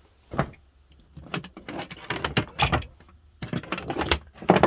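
Irregular knocks, clunks and rattles of a compartment door being worked open by hand, with sharp clacks about half a second in and again near the end.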